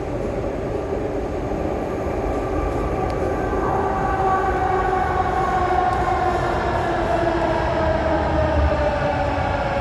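Kawasaki-CRRC Sifang CT251 metro train heard from inside the car, pulling away: an electric traction whine of several tones that shift in pitch as it gathers speed, over a steady rumble of wheels on rail. It grows a little louder about three seconds in.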